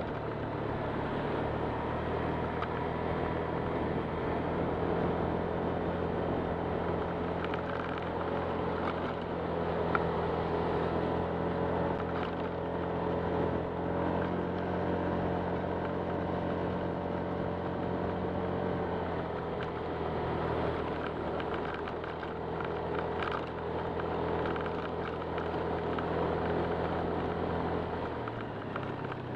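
Honda Click 125 scooter's single-cylinder engine running at steady speed, with wind and road noise over it; the engine note drops near the end.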